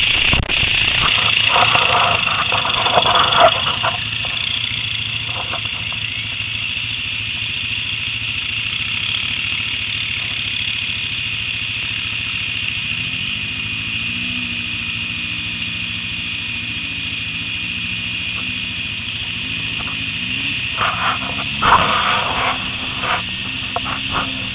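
ATV engines running over a steady hiss, one engine revving up and down from about halfway through. Short louder bursts of noise come near the start and again near the end.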